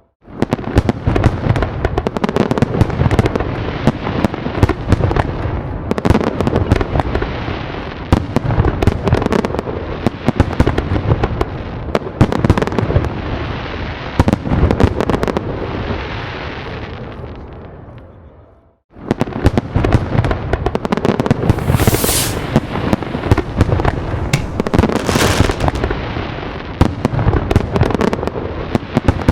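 Fireworks going off in a dense barrage of bangs and crackle. The sound fades out to a brief silence about two-thirds through, then starts again with two high whistles among the bangs.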